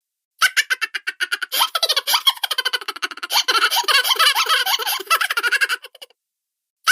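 High-pitched cartoon laughter sound effect: rapid, pulsing chuckles and giggles that start about half a second in and stop suddenly about a second before the end.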